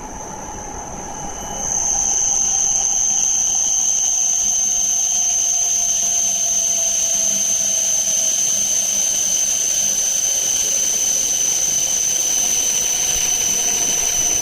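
Hokuriku Shinkansen train pulling into the platform and slowing: a loud, steady high-pitched squeal sets in about a second and a half in, over a lower motor whine that slowly falls in pitch as the train brakes.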